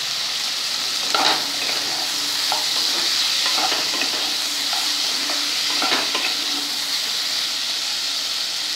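Cubed vegetables sizzling in hot mustard oil in a nonstick kadai as they are stir-fried with turmeric, a steady frying hiss broken by the scrapes of a spatula turning them, the strongest about a second in and around six seconds in.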